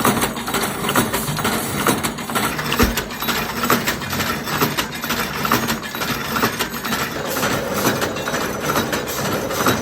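Factory machinery running steadily, with frequent short metallic knocks and clinks over it.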